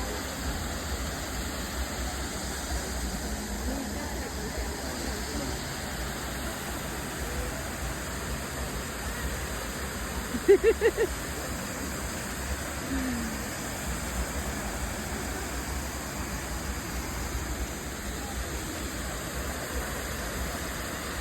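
Waterfall rushing steadily, with low rumble from wind on the microphone. About halfway through comes a quick series of five short pitched sounds, the loudest moment.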